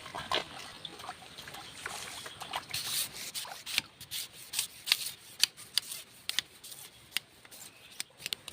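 Scattered raindrops at the start of a sudden shower, heard as sharp irregular ticks and taps that come thickest from about three seconds in.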